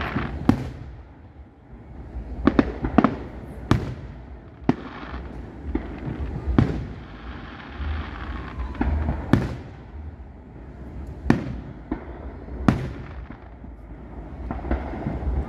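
Aerial fireworks bursting: about a dozen sharp bangs at uneven intervals, over a continuous low rumble of the display.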